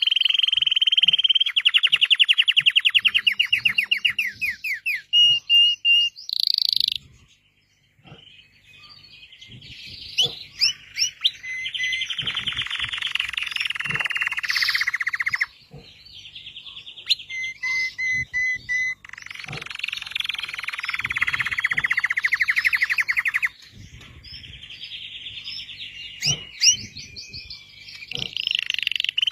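Red canary singing long phrases of rapid trills and rolls, broken by a brief pause about seven seconds in.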